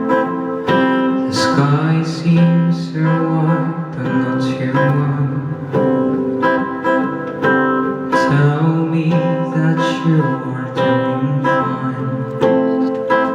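Live band music led by an acoustic guitar strummed in a steady rhythm, over a held low bass line.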